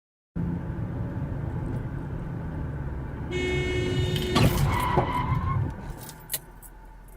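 Car driving noise; about three seconds in, a car horn blares for about a second, then comes a loud bang and a few sharp knocks before the noise drops away.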